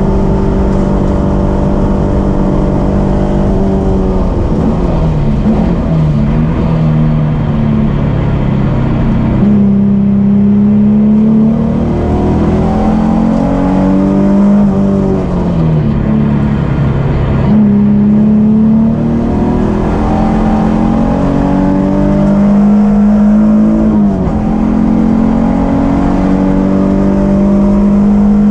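2003 Nissan 350Z's 3.5-litre V6 heard from inside the cabin, pulling hard at high revs on track. Its note falls and climbs again several times as the driver lifts, brakes and shifts for the corners.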